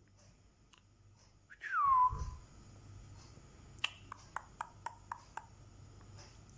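Parrot giving one loud whistle that falls in pitch, followed a couple of seconds later by a quick run of about seven short, sharp clicks.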